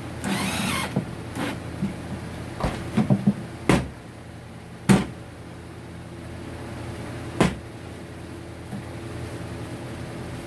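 Hard objects being handled: a brief scrape, then a string of knocks and clicks, the loudest about five seconds in, over a steady low hum.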